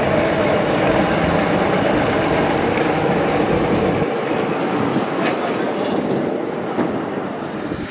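A train running past on the track, a steady loud rumble and rattle; the deepest part of the rumble drops away about halfway through.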